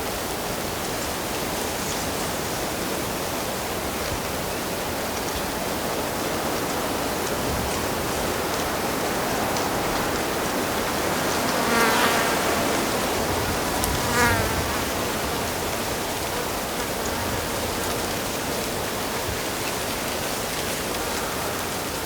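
Steady rush of flowing stream water, with a flying insect buzzing briefly past the microphone twice about halfway through.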